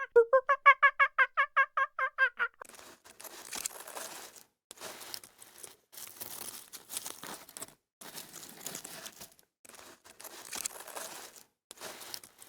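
A farm bird's rapid run of repeated pitched calls, about five a second, ends about two and a half seconds in. After it come faint rustling and crunching noises in short bursts with brief gaps.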